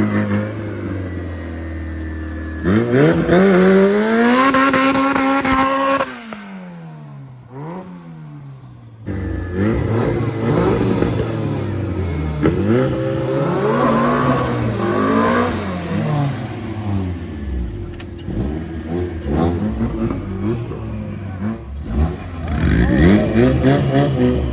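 Honda Civic B-series four-cylinder engine revving hard. It climbs and holds about three seconds in, drops away, then goes through a run of repeated throttle blips that rise and fall.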